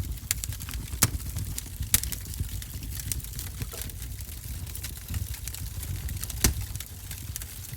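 Wood fire crackling in a wood-burning stove: irregular small pops over a low rumble, with louder snaps about a second in, two seconds in and near the end.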